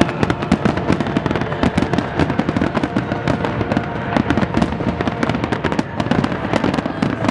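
Fireworks finale barrage: a dense, continuous run of shell bursts and crackles, many per second, loud.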